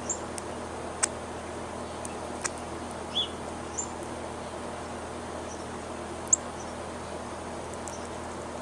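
Small birds giving scattered short, high chirps, mixed with a few sharp clicks, over a steady background hiss.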